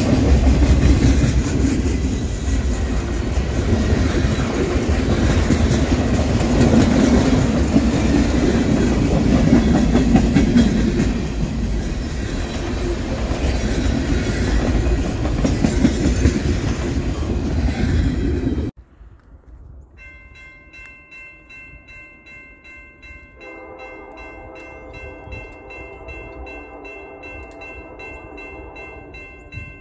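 Freight cars rolling past with a steady rumble and clatter of wheels on rail, which cuts off abruptly about two-thirds of the way through. Then a distant locomotive chime horn sounds one long, steady chord, and its lower notes join a few seconds later.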